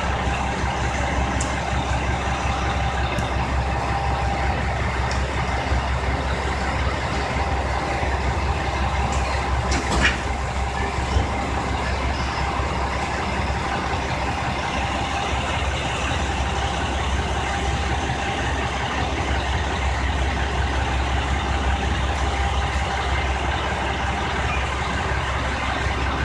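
JR Shikoku 2000 series diesel railcar's engine running steadily, a low drone with a faint steady whine above it. A single sharp click about ten seconds in.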